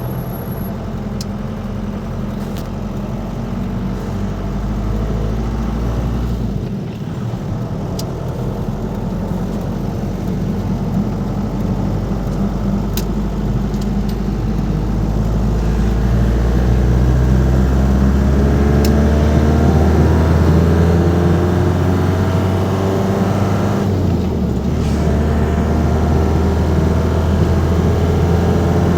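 Ford Transit Mk5's 2.5-litre diesel 'banana' engine pulling the van under way, its note rising as it accelerates. Twice, about a third of the way in and again near the end, the engine note drops away briefly as a gear is changed, then climbs again.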